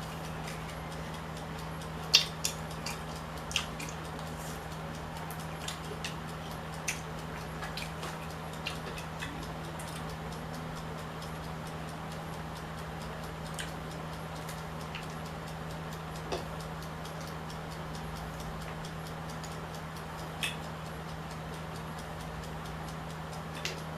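Eating sounds from a meal of mussels and shrimp pasta: scattered small clicks and clinks, the sharpest about two seconds in, over a steady low hum.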